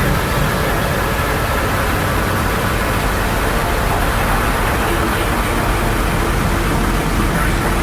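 A steady, dense rumble and hiss from an electronic ambient track, a noise texture that sounds much like traffic or an idling engine, with no clear beat or melody.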